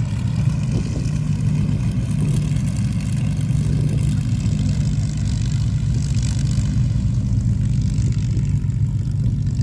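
Avro Lancaster's four Merlin V12 piston engines running steadily on the ground, a deep, even propeller drone.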